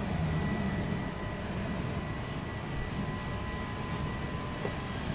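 Steady low rumble of a passenger train coach rolling slowly, with a faint steady whine above it.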